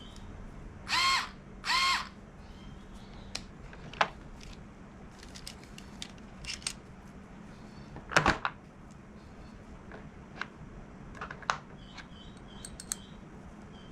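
Bosch cordless screwdriver motor giving two short whirs, about a second apart, near the start. Scattered clicks and knocks follow, the loudest a little past the middle.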